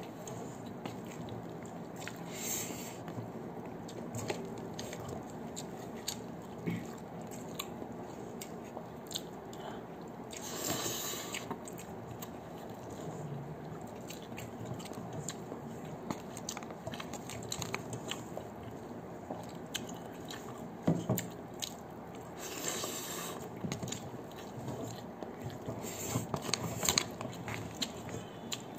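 Close-up mouth sounds of a man chewing a mouthful of instant noodles, with many small wet clicks and smacks, and two brief louder hissing sounds, one about a third of the way in and one about three quarters of the way in.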